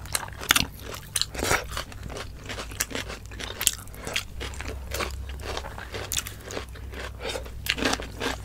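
Close-miked crunching and chewing of raw cucumber and onion pieces, eaten by hand: irregular sharp crunches throughout.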